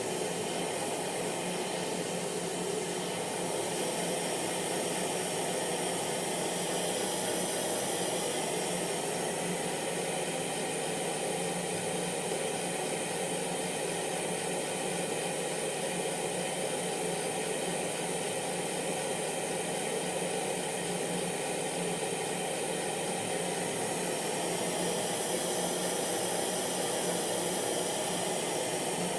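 Electric hair dryer running steadily, a constant airflow rush with a faint motor hum.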